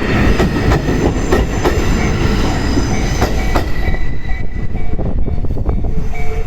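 Towed Kiya E195 rail-carrier cars rolling past at a level crossing, a loud rumble with wheels clacking over rail joints. About four seconds in the train noise thins and the crossing's warning bell is heard ringing in a steady repeating pattern.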